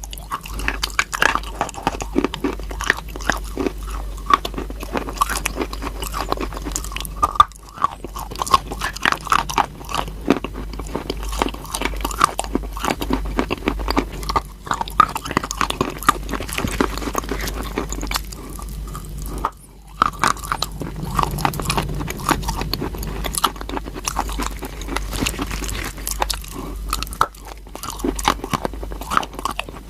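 Someone biting and chewing crunchy chalk: dense, irregular crackling crunches, broken by three brief pauses.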